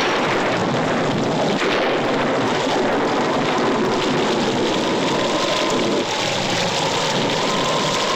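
Recorded storm sound effect: a steady rain-like hiss with a wavering whistling tone that slowly rises and falls, like wind.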